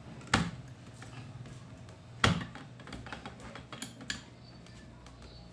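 Two sharp clicks about two seconds apart, then a few lighter ticks, from small metal parts being handled while a drill bit is locked into the chuck of a mini drill press.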